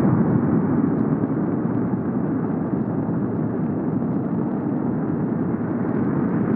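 Soyuz-2.1a rocket engines at maximum thrust during ascent: a steady, loud, deep rumble.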